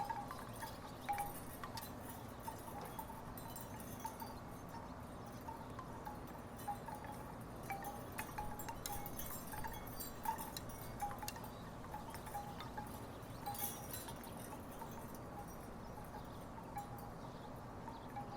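Wooden tiki wind chimes knocking together at irregular intervals: many short pitched knocks over a faint, steady low background noise.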